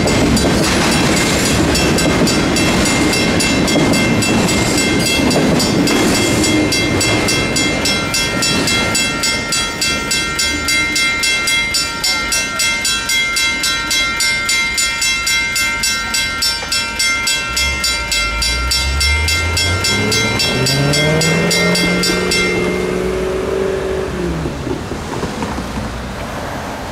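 Union Pacific intermodal freight cars rumbling past a grade crossing, joined by the crossing's bells, a WCH mechanical bell and a WCH electronic bell, ringing in a fast, even beat. The bells cut off sharply near the end as the crossing deactivates. Toward the end a low hum also rises in pitch, holds, then falls away.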